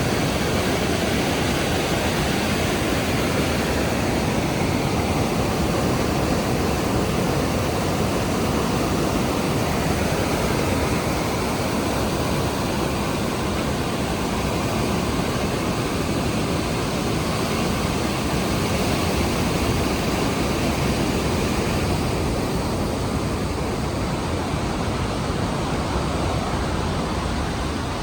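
Rhine Falls' large waterfall pouring, a loud, steady rush of falling water that is strongest in its low, deep part.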